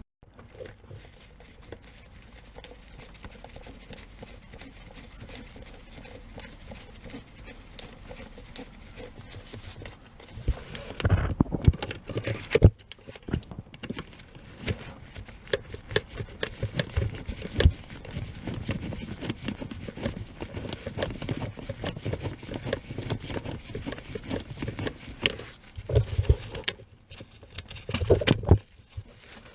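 Clicks, taps and knocks of hand tools and metal parts being handled during work on the car, coming thick and fast. They grow louder about ten seconds in, with heavier knocks around a third of the way through and again near the end.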